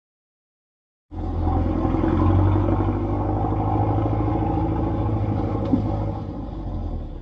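Silence for about a second, then a loaded 4x4 pickup truck's engine running with a steady deep rumble, which drops away near the end.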